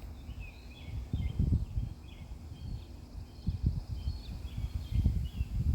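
Outdoor background of small birds chirping repeatedly, under low rumbling noise on the microphone that surges loudest about a second and a half in and again about five seconds in.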